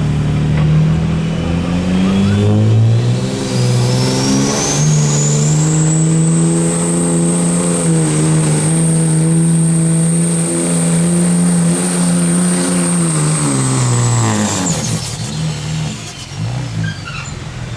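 Engine of a pulling truck or tractor at full throttle under load, with a high turbocharger whistle. The whistle climbs over the first few seconds and holds steady. About three-quarters of the way through, the engine drops off and the whistle falls away as the pull ends.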